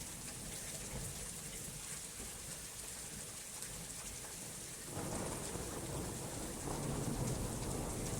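Steady rain hissing, with a low roll of thunder that comes in suddenly about five seconds in and swells near the end.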